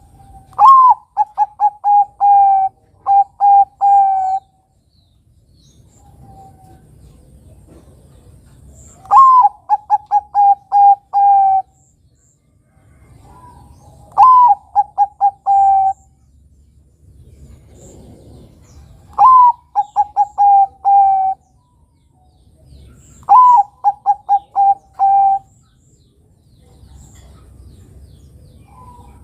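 Zebra dove (Bangkok-type perkutut) singing: five phrases several seconds apart, each opening with a rising note followed by a quick run of short, even coos.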